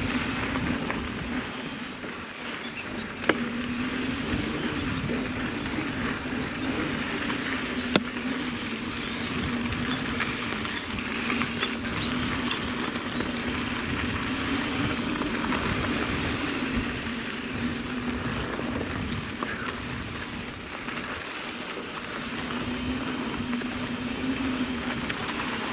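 Mountain bike ridden up a dirt trail: steady tyre and drivetrain noise with a wavering low hum, and two sharp knocks about 3 and 8 seconds in.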